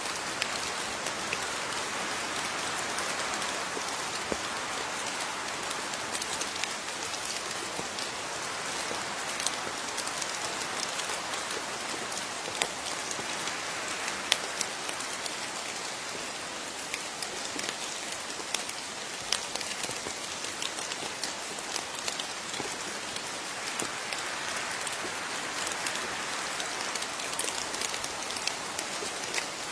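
Steady rain falling on a surface, with a constant hiss and many distinct drops ticking at irregular moments.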